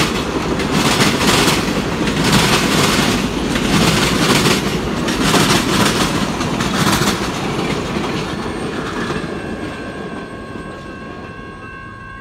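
Passenger cars of a CSX train rolling past, their wheels clacking over the rail joints in regular pairs. The clacks stop and the sound fades about seven seconds in as the last car goes by, and a steady horn chord then sounds in the distance.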